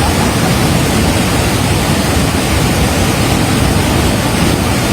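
Fast-flowing floodwater rushing past, a loud steady wash of noise with no breaks.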